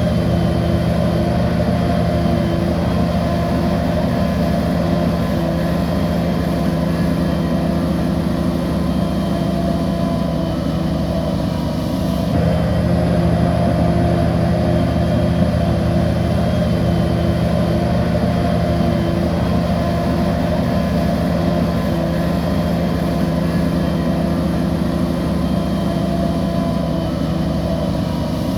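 Bulldozer's diesel engine running steadily under load, with a sudden shift in the sound about twelve seconds in.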